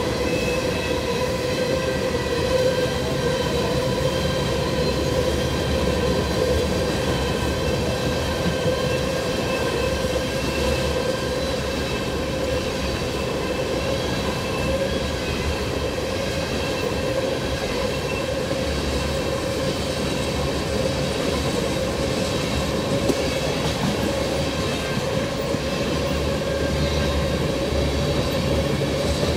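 Tank cars of a freight train rolling past: a steady rumble of steel wheels on rail, with a thin, steady squeal over it.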